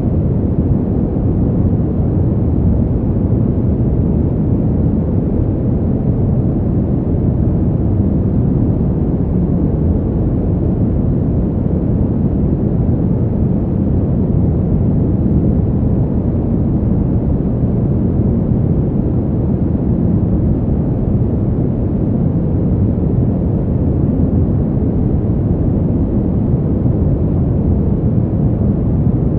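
Wind sound for sleep: a steady, deep rumbling noise with no gusts, breaks or sudden sounds, and little hiss in the high end.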